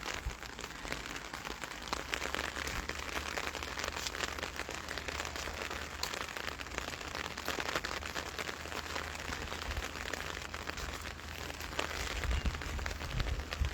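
Steady patter of light rain with scattered drop ticks. A low wind rumble on the microphone builds near the end.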